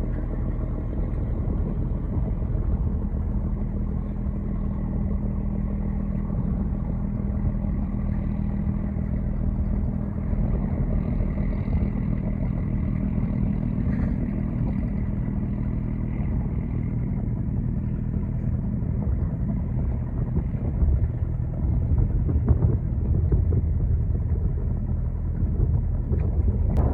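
Boat engine running steadily, a low hum with even tones that grows a little rougher and louder in the last several seconds.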